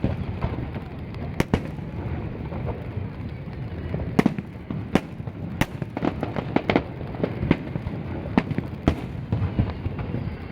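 Aerial fireworks display going off: an irregular string of sharp bangs, one or two a second, over a continuous low rumble of shells bursting and echoing.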